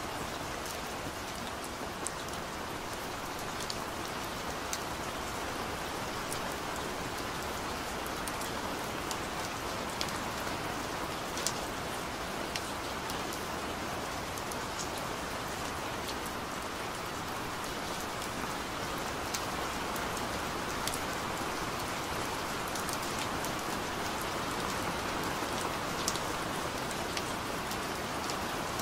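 Steady rain falling, with many individual drops ticking sharply over the even hiss.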